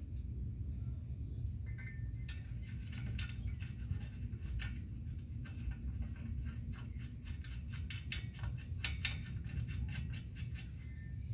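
Small metallic clicks and ticks of a nut being run onto a bolt at an exhaust pipe flange, irregular and coming in clusters. Under them is a steady high-pitched insect drone, like crickets, over a low hum.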